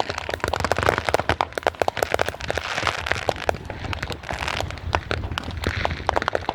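Fireworks crackling: a dense, continuous rattle of small sharp pops and cracks that swells and eases about every second, over a low rumble.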